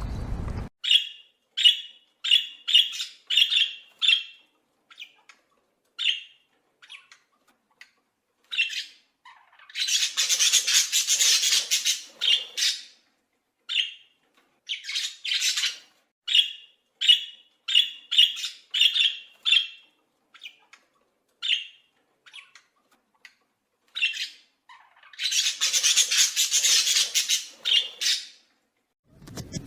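A small animal or bird giving many short, high, squawking calls in irregular series, broken twice by a longer harsh rasping burst lasting two to three seconds.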